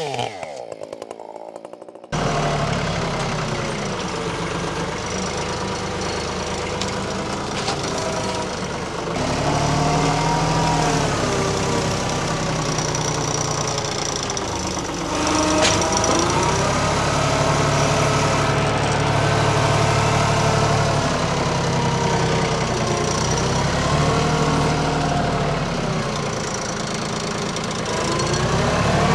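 A chainsaw winds down from full revs, then about two seconds in a compact tractor's diesel engine is heard running, its speed rising and falling as it works under changing load.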